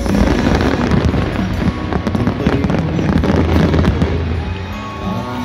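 A fireworks barrage: rapid crackling bursts and deep booms over loud show music, easing off a little near the end.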